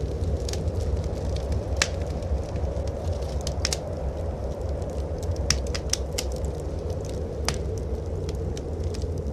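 Wood fire crackling in a fireplace, with sharp irregular pops, over a steady low rumble of blizzard wind.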